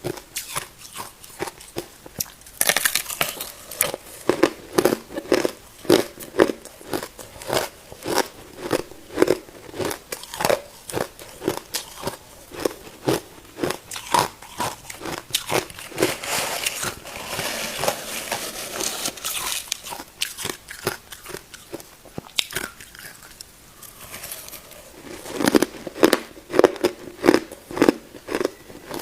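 Ice being bitten and chewed close to the microphone: a long run of sharp, crackling crunches, roughly two a second, with a denser grinding stretch in the middle.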